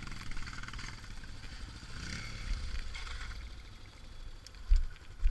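Yamaha XT 600 single-cylinder motorcycle engine running under way, revving up about two seconds in, with two heavy low thumps near the end.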